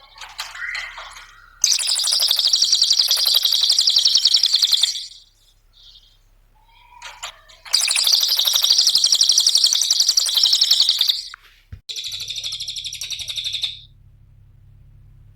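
Cililin songbird singing in fast, chattering trills of high repeated notes. A short call is followed by two long bouts of about three seconds each, then a shorter, steadier-toned phrase near the end.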